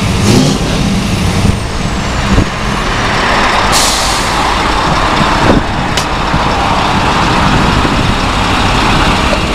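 Scania 730 truck's 16-litre V8 engine running, with a short hiss of air about four seconds in and a sharp click about six seconds in.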